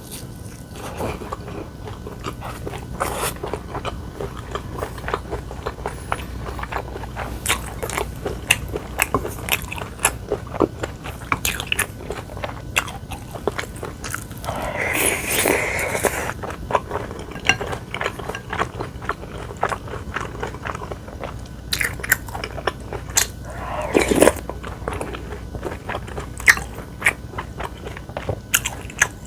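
Close-up eating sounds: a person chewing and biting, with many small crunches and wet clicks of the mouth, and one longer noisy mouth sound about halfway through.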